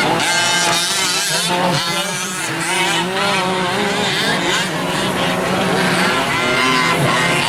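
Several 1/5-scale gas RC trucks' small two-stroke engines revving up and down as they race, their overlapping pitches rising and falling.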